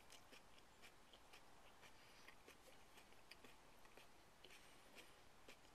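Very faint chewing: soft, irregular mouth clicks of a man chewing a mouthful of raw hot chili pepper with his lips closed.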